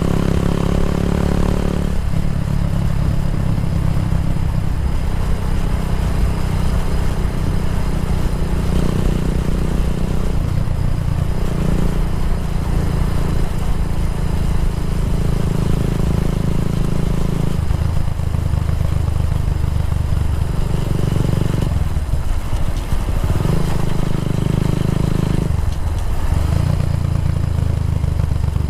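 Kawasaki W175's single-cylinder engine running through an aftermarket racing exhaust. Its note steps up and down every few seconds as the throttle changes.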